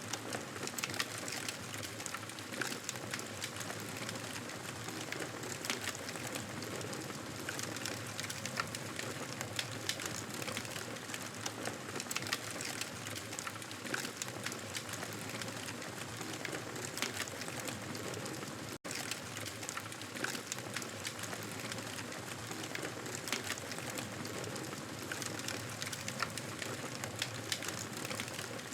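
Wood fire crackling in a fireplace: a steady hiss with many small sharp pops and snaps. The sound drops out for an instant about two-thirds of the way through.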